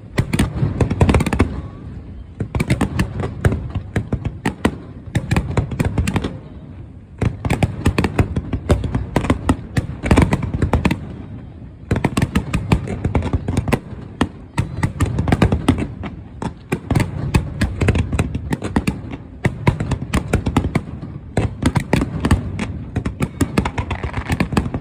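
Fireworks going off in a continuous rapid barrage of bangs and crackles, many a second, easing briefly every few seconds before building again.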